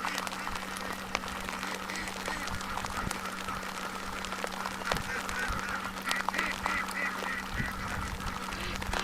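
A large flock of domestic ducks quacking and chattering together, with scattered clicks and a steady low hum underneath.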